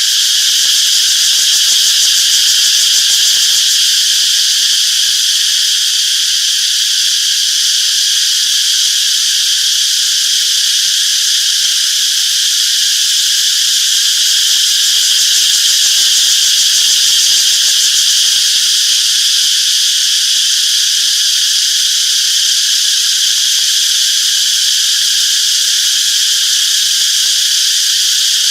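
Cicadas in a loud, unbroken chorus: a steady high-pitched buzz that holds without change.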